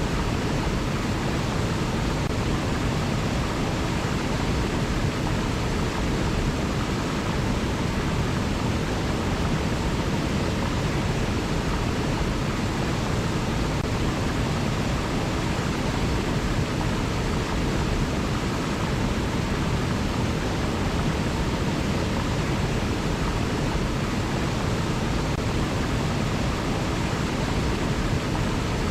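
River water flowing, a steady, even rushing noise that does not change.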